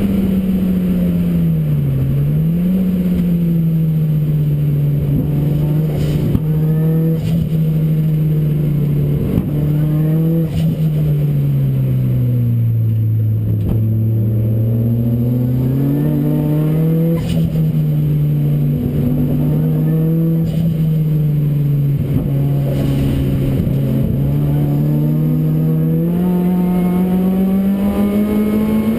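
Ford Racing Puma's modified Ford Focus RS engine at track pace, heard on board. The engine note rises and falls with the revs: a brief dip about two seconds in, the deepest and longest low stretch around the middle, then climbing again near the end.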